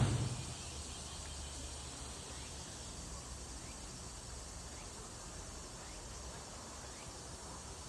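A low thump right at the start, then a steady outdoor background of insects, with faint short high chirps now and then.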